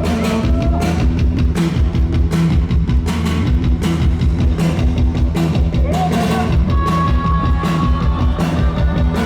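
A post-punk band playing live and loud: a steady drum beat over bass and electric guitar.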